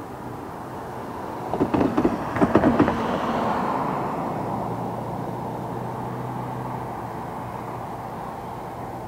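Distant approaching diesel train: a steady low rumble and hum that swells and then holds. Between about one and a half and three seconds in comes a quick run of loud, sharp knocks, the loudest sound here.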